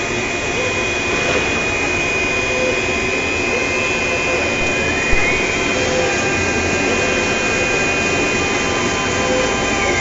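Pattern-cutting machine for cardboard running, with a steady high motor whine over mechanical noise; the whine rises in pitch again about five seconds in and starts to fall near the end, and there is a single sharp click about halfway through.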